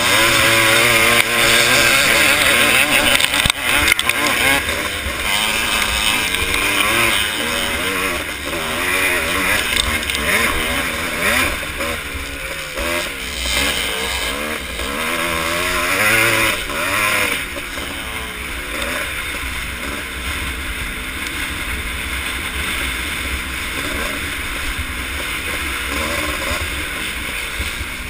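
Vintage motocross motorcycle engines racing, revving up and dropping off again and again, loudest in the first few seconds.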